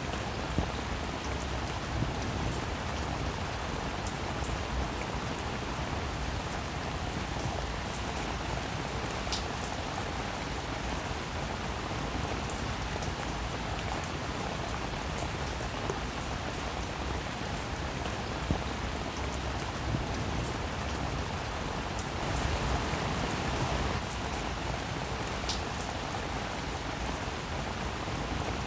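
Steady rain falling, with many small drop ticks scattered through it. The rain swells slightly louder for a couple of seconds about two-thirds of the way through.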